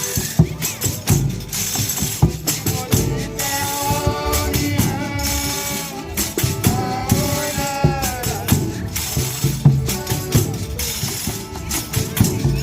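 Folia de Reis music: tambourines struck and shaken in a steady rhythm, with sung or held melodic lines over them between about three and eight seconds in.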